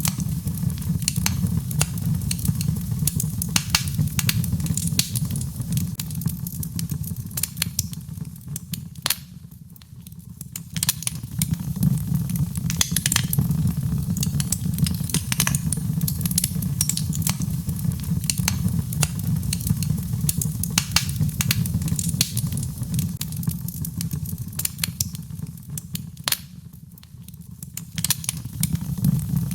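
Birchwood fire burning in a fireplace, crackling and popping constantly over a steady low rumble of flame. The crackles thin out briefly twice.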